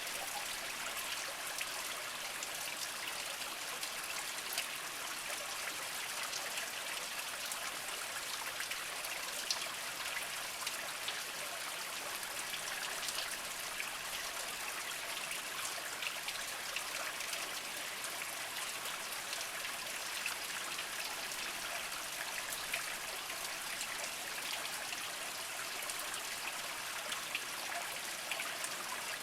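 Small spring water trickling and splashing over mossy rocks: a steady, even babble with many small drips.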